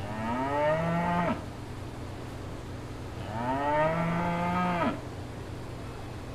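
A cow mooing twice, two long moos a couple of seconds apart, each rising and then falling in pitch, over a steady low hum.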